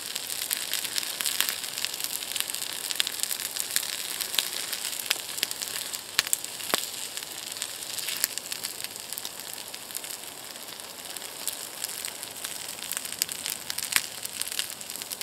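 A pan of rice, prawns and vegetables sizzling over campfire embers, with a steady hiss and frequent sharp crackles and pops.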